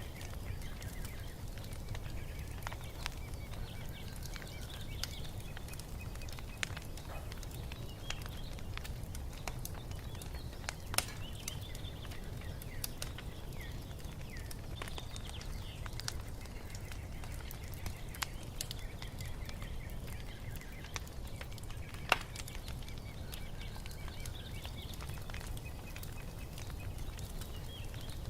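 Wood fire crackling, with a steady low rumble and scattered pops, two of them sharper, one before the middle and one later. Faint bird chirps sound over it.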